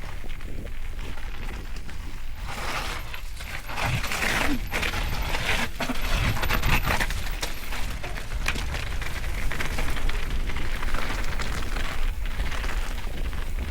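Mountain bike riding over rough, wet ground, heard through wind rumble on the camera microphone, with a clatter of knocks and rattles that is busiest in the middle seconds.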